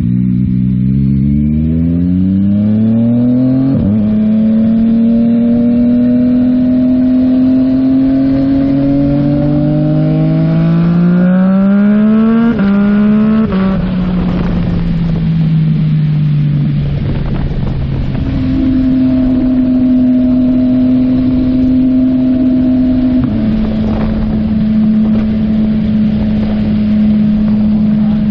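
Yamaha MT-09 three-cylinder engine through a Yoshimura AT2 full exhaust, heard from the bike while riding. It revs up hard with an upshift about four seconds in and pulls on to about twelve seconds, then shifts and winds down before settling into a steady cruise. A constant rush of wind on the microphone runs underneath.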